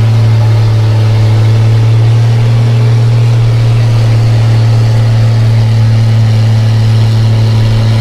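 Mega truck engine running loudly at a steady, unchanging pitch.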